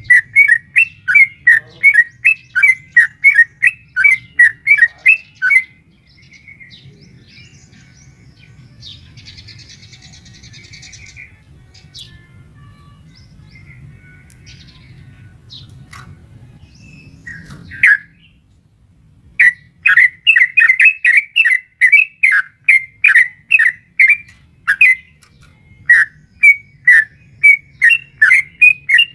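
Yellow-vented bulbul (trucukan) giving a long, rapid series of loud repeated chirping notes. The series breaks off at about six seconds, a single note comes near eighteen seconds, and the fast run of notes resumes a little later and carries on. A faint low hum sits underneath.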